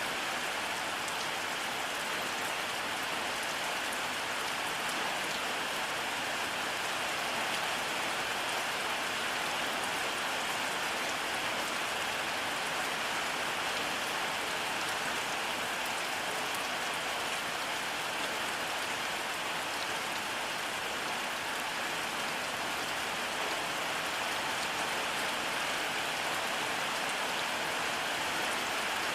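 Steady rainfall, an even hiss of drops on surfaces that holds level throughout, with no thunder.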